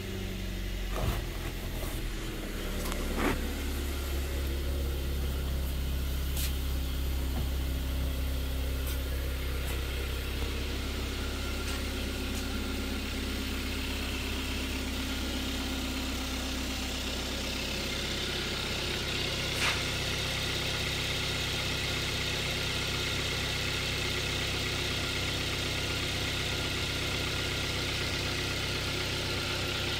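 2012 Kia Soul's 1.6-litre GDI four-cylinder engine idling steadily, with a few light clicks.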